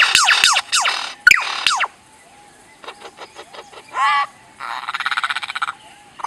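A songbird singing a varied song: a fast run of descending whistled notes, about four a second, then after a short pause a few clicks, a brief warbling note and a buzzy trill.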